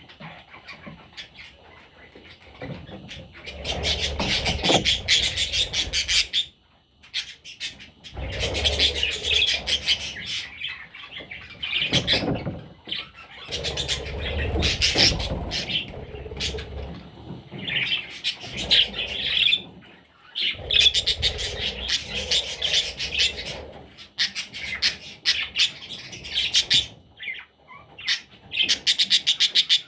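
Budgerigar chicks chirping in rapid, high-pitched runs lasting a few seconds each, broken by short pauses.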